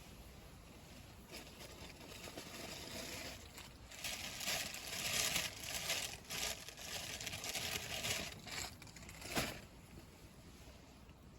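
Irregular rustling and crinkling, as of dry material being crumpled or handled. It grows louder from about four seconds in and ends with a sharp click about nine seconds in.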